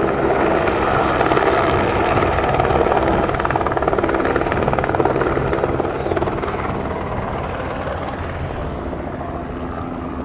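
Helicopter flying low overhead, a loud steady rotor-and-turbine noise that slowly fades away over the second half.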